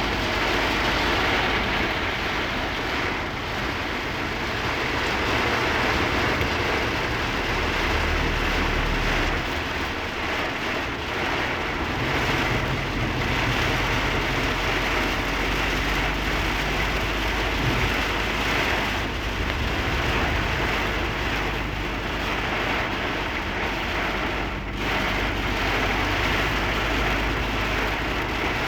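Heavy rain falling on a moving vehicle: a steady rush of rain over engine and road noise.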